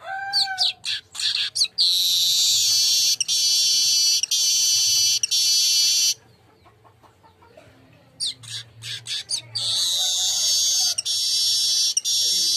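Manyar kepala emas (a weaver) singing: a quick run of clicking, chattering notes leads into a long, high, buzzy trill held about four seconds. After a pause, more chattering notes build into a second long buzzy trill about ten seconds in.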